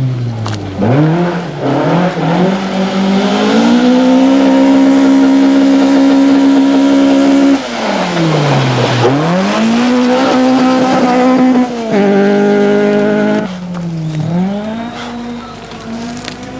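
Fiat 131 Abarth rally car's engine revving hard: its pitch climbs and holds high, drops sharply about halfway through, climbs and holds again, then falls away and picks up once more near the end.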